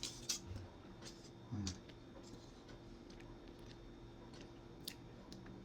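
Quiet chewing of a piece of milk chocolate, with a few faint mouth clicks and a short hummed "mm" of approval about one and a half seconds in.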